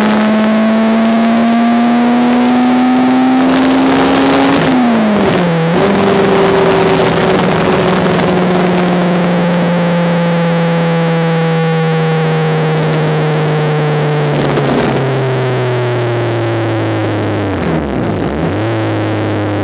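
Honda Civic race car engine heard onboard at high revs. It rises in pitch under acceleration for the first four seconds or so, then dips sharply and briefly about five seconds in. After that it holds a slowly falling note, steps down again later, and dips briefly once more near the end, over steady wind and road noise.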